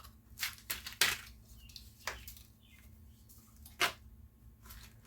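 A few separate sharp metal clicks and knocks, about a second or more apart, from hand tools and small bolts being handled while a small engine is taken apart.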